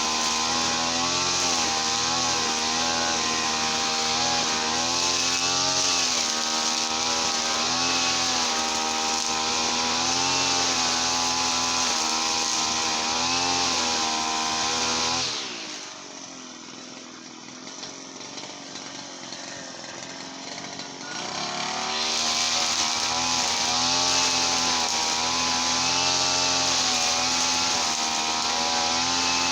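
Petrol brush cutter engine running at speed, its pitch wavering with the throttle. About halfway through it winds down and goes much quieter for several seconds, then revs back up to full speed.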